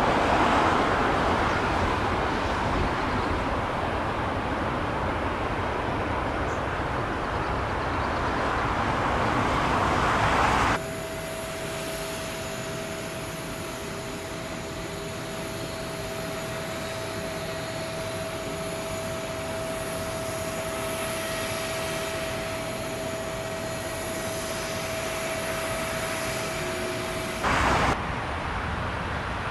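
Jet airliner engines. A loud, even roar lasts about ten seconds and stops abruptly at a cut. It is followed by a quieter, steady engine sound with a constant whine, and another abrupt change comes near the end.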